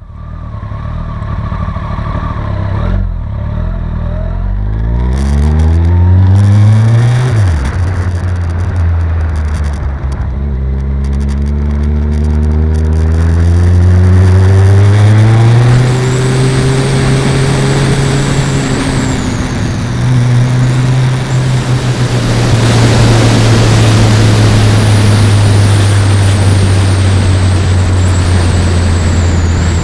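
Kawasaki ZZR1400's inline-four engine accelerating hard, its pitch climbing, dropping sharply at a gear change about seven seconds in, then climbing again and holding steady at speed. Heavy wind rush on the bike-mounted camera's microphone builds over the second half.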